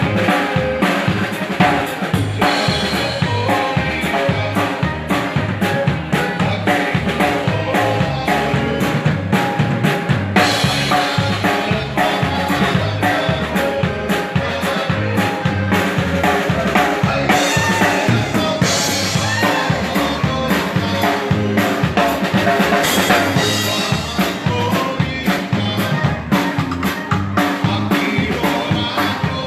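A Texas Czech dance band playing a tune, with a drum kit keeping a steady beat under the melody instruments.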